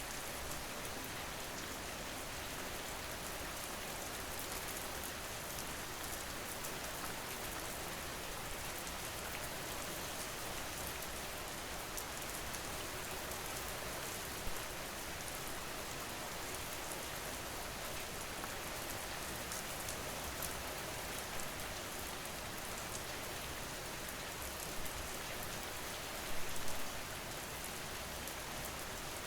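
Steady rain falling, an even hiss of drops with a few slightly louder drop ticks, a small cluster of them about 26 seconds in.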